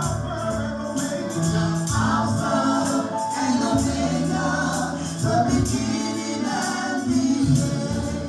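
Gospel music: a choir singing over an instrumental backing with bass and a steady percussion beat.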